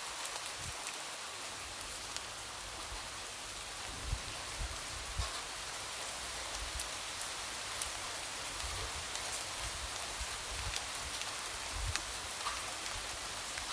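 Light rain falling steadily on a window: an even hiss with scattered individual drops ticking and occasional soft low thumps.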